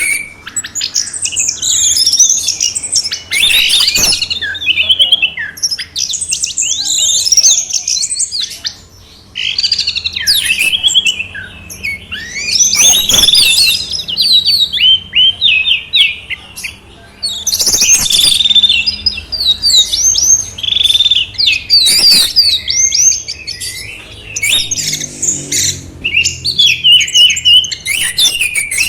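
Songbirds singing a fast, varied song of high chirps, whistles and trills in busy phrases with short pauses; the mix includes orange-headed thrush song among three birds' voices. A few sharp clicks are heard now and then.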